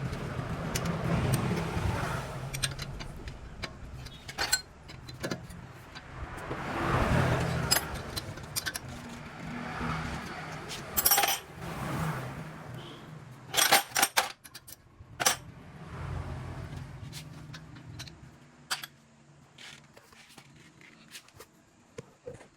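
Sharp metallic clinks and rattles, most often about halfway through, over a vehicle engine running at a steady low hum. It is quieter in the last few seconds.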